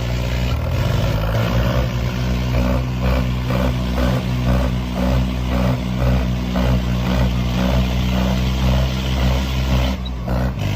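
Tractor diesel engines running hard and steady under load, as in a tractor tug-of-war, with a regular pulsing of about two beats a second.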